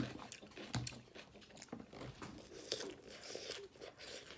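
A person chewing a mouthful of raw salad greens: irregular, crisp crunches as the leaves are bitten and chewed. The loudest crunch comes right at the start, with another about a second in.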